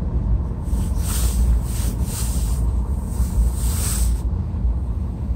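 Freight train of covered hopper and tank cars rolling through a grade crossing: a steady deep rumble, with a few hissing swells about one to four seconds in.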